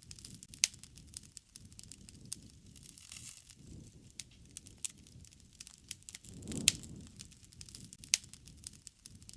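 Wood fire crackling, with sharp snaps and pops at irregular intervals, the loudest just under a second in and about six and a half seconds in. Under them a low rush of burning swells up twice, most strongly around the loudest pop.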